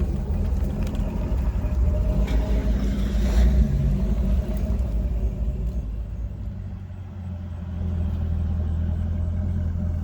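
Car engines running as cars drive slowly in, with a low steady sound that dips about seven seconds in and then picks up again.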